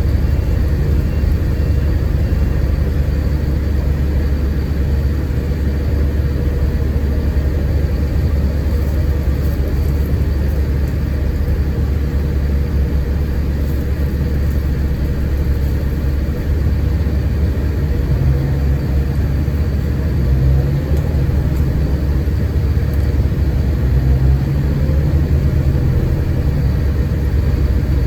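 Scania K410IB coach under way, heard from inside: a steady low rumble of its diesel engine and drivetrain with road noise, a somewhat stronger low engine note coming in twice in the second half.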